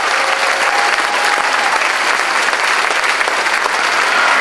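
Audience applauding steadily: dense, even clapping from a theatre crowd.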